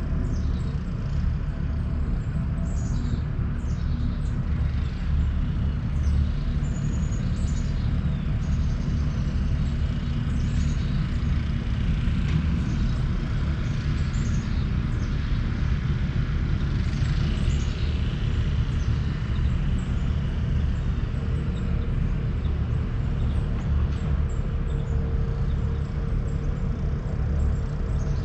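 Outdoor ambience: a steady low rumble with small birds chirping again and again above it.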